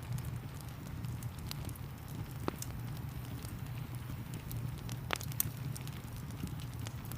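Wood fire crackling, with scattered small clicks and a few sharper pops about two and a half and five seconds in, over a steady low rumble of rain.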